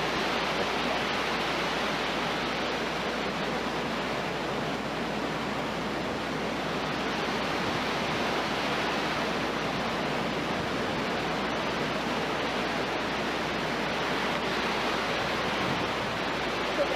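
Steady roar of a tornado, a continuous rushing noise that sounds like a train.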